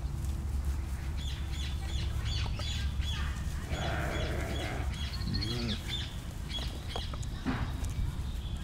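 A bird singing: a quick row of repeated high chirps, about three a second, lasting several seconds, over a steady low rumble.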